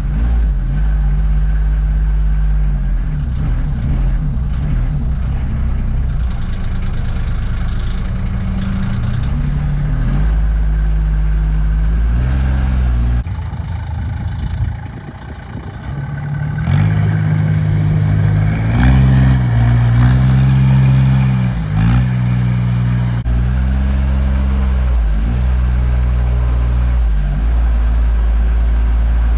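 Off-road vehicle engine running and revving up and down while crossing a flooded, muddy ditch. It eases off about halfway through, then revs harder with the pitch repeatedly rising and falling.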